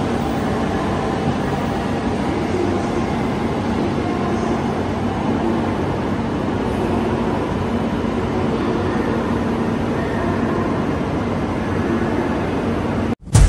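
E4 series Max double-deck Shinkansen pulling away from an underground station platform: a steady rumble with a faint low hum. It cuts off abruptly near the end, and a loud hit follows.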